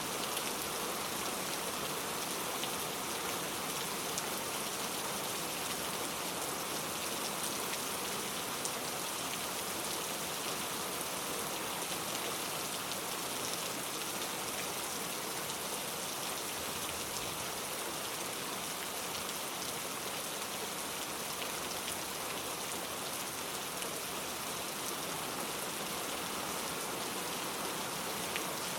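Steady rain falling, an even hiss of many drops with occasional distinct drop ticks, no thunder.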